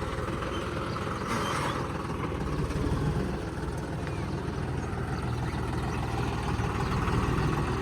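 Pump-modified John Deere 5405 tractor's diesel engine running steadily under test.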